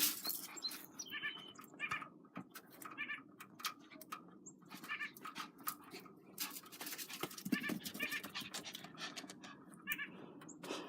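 Excited dog whining in short, high cries, repeated every second or so, among scattered crackles.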